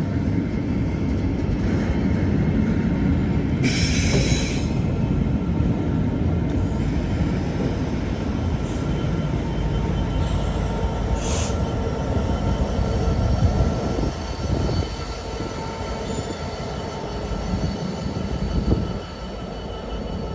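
A train running past on the line, with a steady heavy rumble of wheels on track and a brief high-pitched burst about four seconds in.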